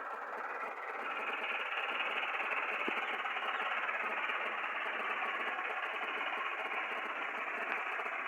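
Millat tractor's diesel engine running with a steady, fast clatter, growing a little louder about a second in.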